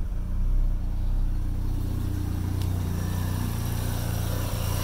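Mazda RX-7's rotary engine idling steadily, a low hum, with the air-conditioning compressor just switched off. More hiss comes in about halfway through.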